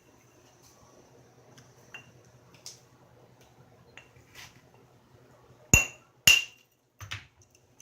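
Flintknapping: a few faint light ticks, then two sharp ringing strikes of a knapping hammer on a stone core about half a second apart, followed by a softer knock. The strikes drive a flake off along a ridge of the core.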